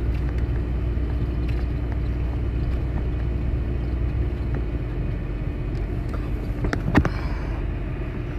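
Vehicle engine running steadily with a low hum, and one sharp knock about seven seconds in.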